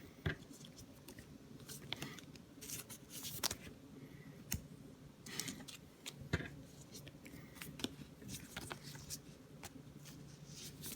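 Quiet handling of trading cards and their packaging: scattered light clicks, slides and rustles as cards are shuffled and set down.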